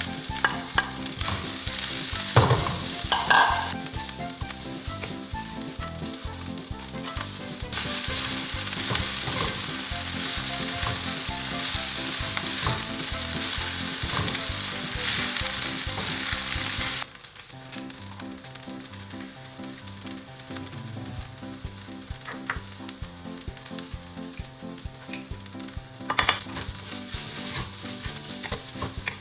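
Fried rice sizzling in a hot pan while it is stirred, with the occasional scrape of the spatula. The sizzle grows louder about eight seconds in, then drops suddenly around seventeen seconds to a softer, steady frying.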